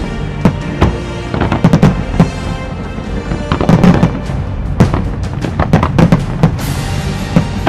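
Aerial fireworks shells bursting in a rapid, irregular series of sharp bangs, some coming in quick clusters, over the show's accompanying music.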